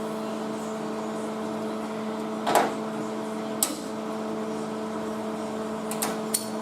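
Steady electrical hum, typical of a welder's transformer standing by between welds, with a few sharp clicks and taps, the loudest about two and a half seconds in.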